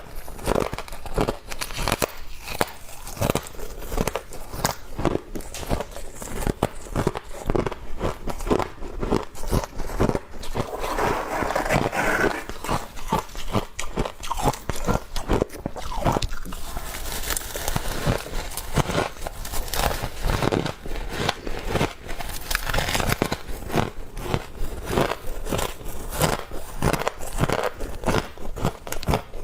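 Close-up biting and chewing of humidifier frost: a continuous run of sharp, irregular crunches and crackles, several a second.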